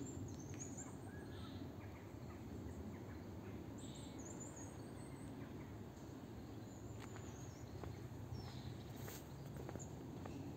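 Birds chirping faintly in a few short, high, wavering phrases over a steady low outdoor background hum.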